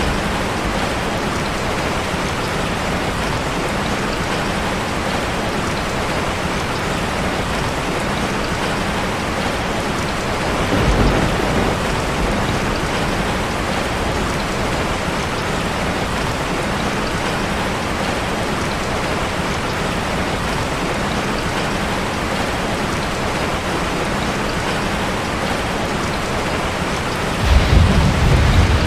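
Steady heavy rain on a metal roof, with a low roll of thunder about eleven seconds in and a louder one near the end.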